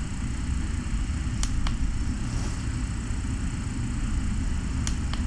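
Steady low rumble with a few faint, sharp clicks.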